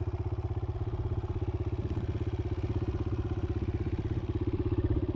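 Kawasaki KLX140L dirt bike's single-cylinder four-stroke engine idling steadily, with an even, rapid beat.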